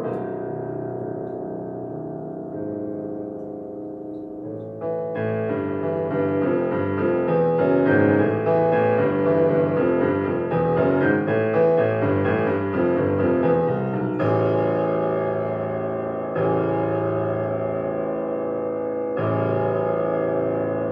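Solo piano playing a dissonant, unusual-sounding piece: held chords ringing, then a busier passage of quick notes about five seconds in, then three chords struck and left to ring.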